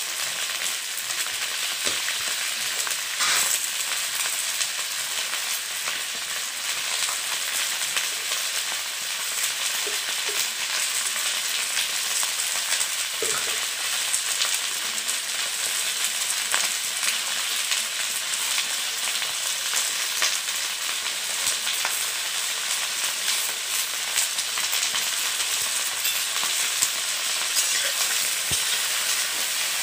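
Okra, onion and potato pieces frying in hot oil in a metal kadai, a steady sizzling hiss. Near the end a spatula stirs them against the pan.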